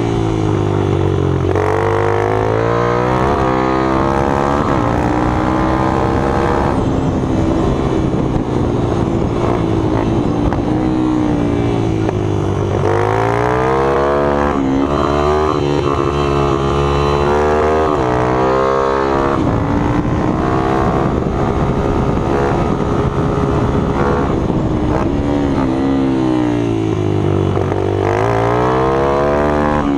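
Minibike engines running hard, the pitch dropping and climbing again three times, roughly twelve seconds apart, as they slow and accelerate.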